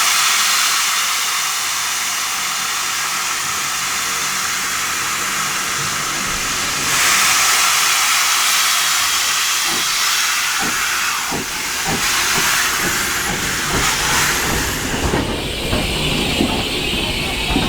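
Steam locomotive letting off steam in a loud, steady hiss that surges again about seven seconds in. From about halfway, irregular knocks and clanks sound over the hiss.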